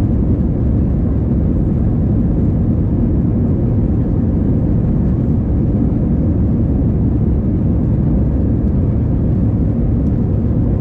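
Airliner engines and airflow heard inside the passenger cabin: a loud, steady, low rumble that holds constant without rising or falling.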